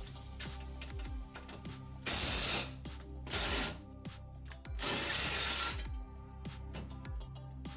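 Power drill running in three short bursts, with a string of sharp mechanical clicks between them as hardware is fastened on a chainsaw mill frame.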